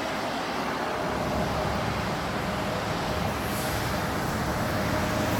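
Steady street traffic noise, a low even rumble and hiss of vehicles going by.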